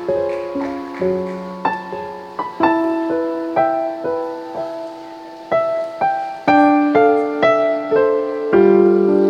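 Piano accompaniment playing an instrumental passage on its own: melody notes struck one after another over held chords, each note ringing and dying away. It swells to fuller, louder chords near the end.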